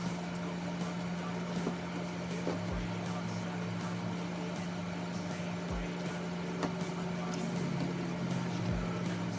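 A steady low mechanical hum, with a soft low thump about every three seconds and a few faint clicks.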